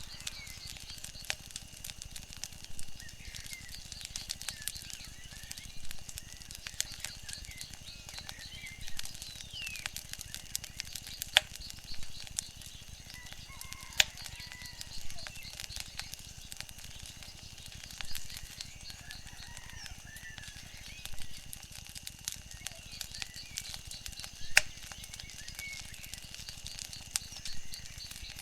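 Wood fire crackling with frequent sharp pops, over small waves lapping a lakeshore in soft swells about every three seconds.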